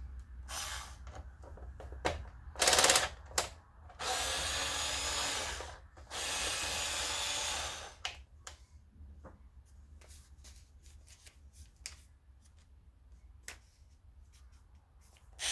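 Power drill running in two steady bursts of about two seconds each, with a shorter burst before them and scattered clicks and knocks of handling around them.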